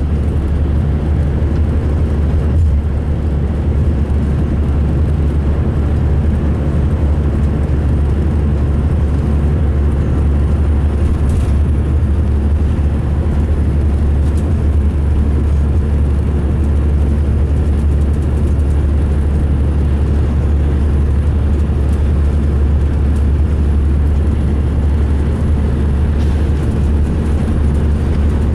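2005 MCI D4500 coach running, a steady loud low rumble of diesel engine and road noise with no change in pace; the uploader says this coach sounded rough running.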